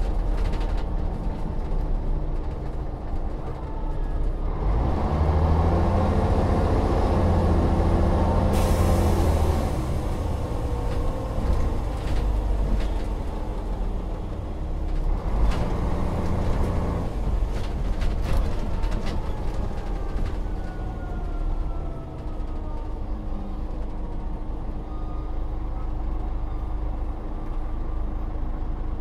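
Volvo Olympian double-decker bus's diesel engine pulling away and rising in pitch as it accelerates, with a short hiss of air about eight and a half seconds in. It accelerates again a little later, then winds down as the bus slows.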